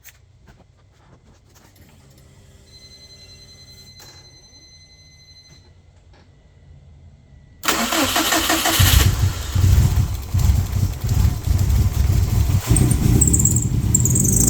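A turbocharged Subaru WRX/STI boxer engine being started after an up-pipe replacement. The first half is quiet; past halfway the starter cranks briefly, then the engine catches and runs loudly with uneven, fluctuating revs.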